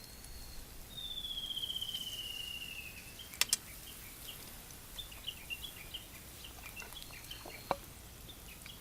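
Bird calls: a long call that slides down in pitch for about two seconds, then a string of short high chirps, with a couple of sharp clicks in between.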